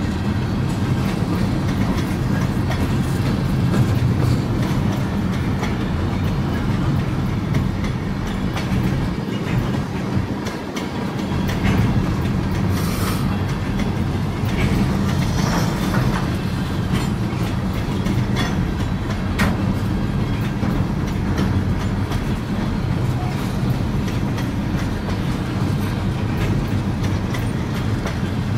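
Kansas City Southern de México freight train rolling past, a steady low rumble with the clickety-clack of wheels over the rail joints.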